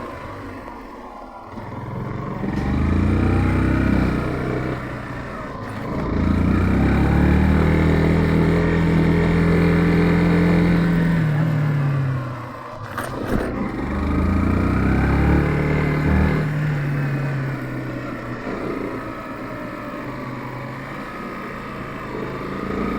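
Yamaha FZ15's single-cylinder engine running while riding, its pitch climbing as it accelerates and dropping as the throttle closes, several times over. A short sharp click comes about halfway through.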